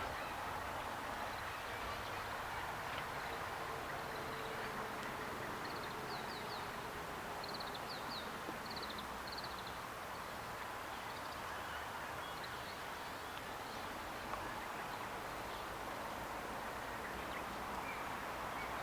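Steady outdoor background noise with a faint low hum. A small bird chirps in short, quick runs of high notes between about six and ten seconds in.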